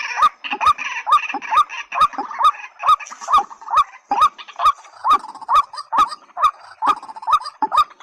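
A rail calling over and over: a fast, even series of short, upward-hooked notes, about two to three a second, each starting with a sharp click.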